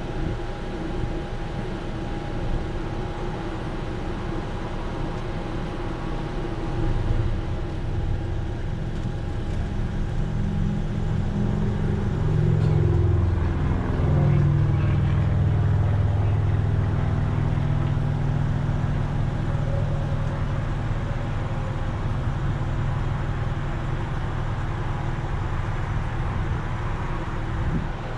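Car engine running, heard from inside the cabin. The low rumble grows louder about a quarter of the way in, rises and falls in pitch briefly near the middle, then holds steady and louder.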